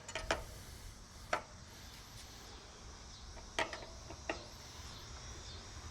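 A few short, sharp clicks of a metal wrench being fitted to and turned on an e-bike's wheel axle nut, with faint high chirping in the background.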